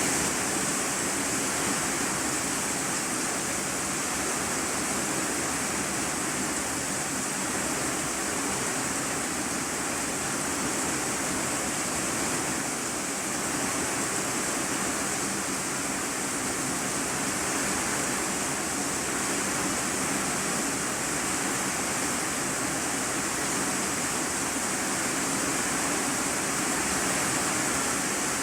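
Heavy rain falling steadily on an iron-sheet roof, heard from inside the room beneath it: a constant, even hiss with no single drops standing out.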